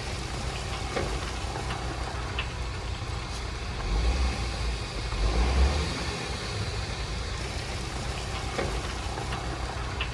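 Heavy diesel engine of earthmoving machinery running low and steady, swelling briefly twice about four and five and a half seconds in.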